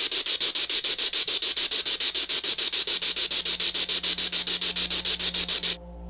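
Spirit box (a radio scanning rapidly through stations) sweeping, giving loud static hiss chopped into quick even pulses, about eight a second. It cuts off suddenly near the end, and low sustained music tones begin.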